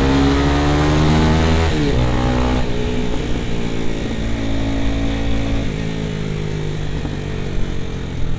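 Honda CBR 250R's single-cylinder engine pulling away and changing up through the gears. Its pitch drops at the shifts a couple of seconds in, then settles into a steadier cruising note.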